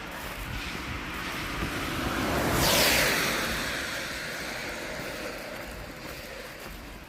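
A car driving past on the road: tyre and engine noise swells to a peak a little under three seconds in, the sound drops in pitch as it goes by, then fades away.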